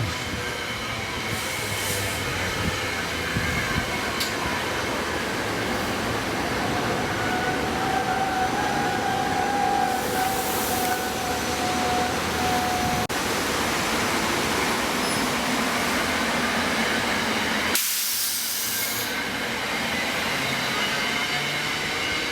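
SEPTA Regional Rail train at the station, a steady rumble and hiss with a thin squealing tone in the middle and a brief hiss of air near the end.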